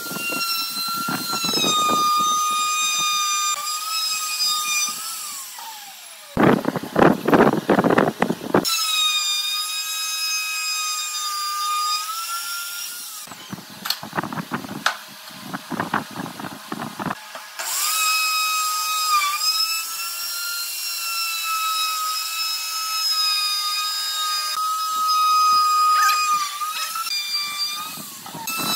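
Electric power tool running with a high whine that dips in pitch now and then under load. It is broken twice by a few seconds of rapid, sharp clattering strikes, once about six seconds in and again in the middle.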